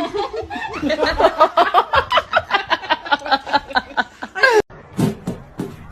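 A person laughing hard: a rapid run of high-pitched 'ha' bursts, about five a second, that cuts off abruptly after about three and a half seconds. A few sharp knocks or taps follow.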